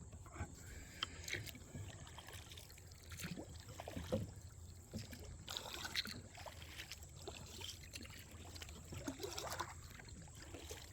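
Kayak paddle strokes dipping and splashing in creek water at an irregular pace, paddling against the current.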